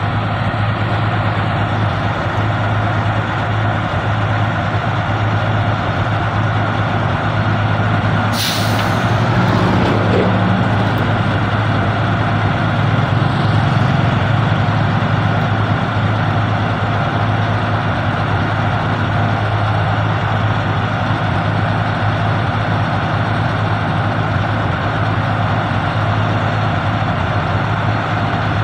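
Heavy truck engine running steadily with a deep, even hum. A short hiss of released air, as from air brakes, comes about eight seconds in.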